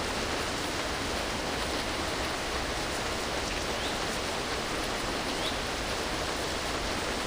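Heavy rain making a steady, even rushing hiss.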